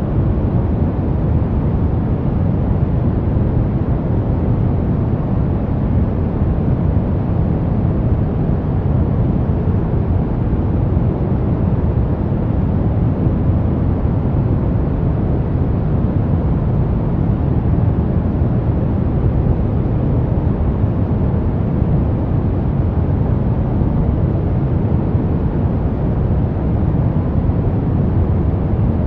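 Steady brown noise: an even, unchanging rumbling hiss weighted to the low end, with little above a few kilohertz.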